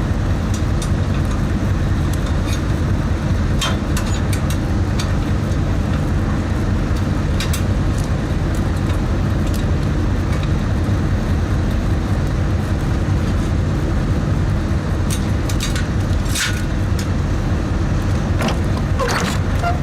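Steady low rumble of an idling truck engine, with a few short metallic clicks and clinks scattered through it.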